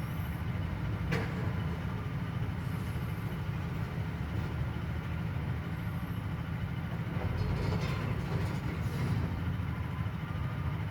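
Steady low rumble of construction work heard through the walls indoors, with a single sharp click about a second in.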